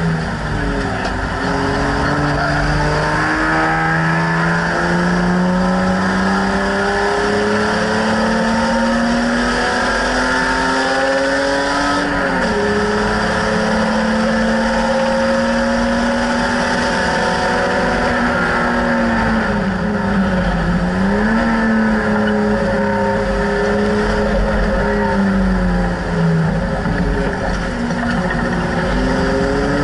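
BMW E30 race car's engine heard from inside the stripped cabin, running hard under load. The pitch climbs steadily for about twelve seconds, then drops with a gear change. It holds, dips and recovers near twenty seconds as the driver lifts and comes back on the throttle, then drops again with another shift near the end.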